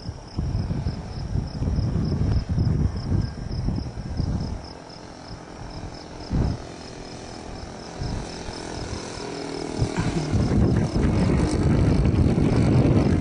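Gusts of wind buffeting the microphone, over crickets chirping steadily. From about eight seconds in, a radio-control model plane's engine and propeller come in and grow steadily louder.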